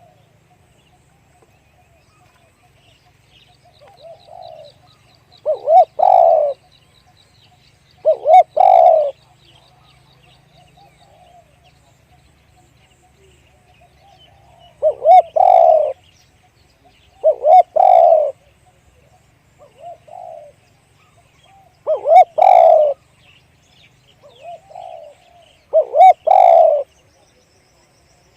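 Spotted dove cooing: about six loud phrases of low coos a few seconds apart, with softer coos in between. Faint high chirping of a small bird runs under the first several seconds.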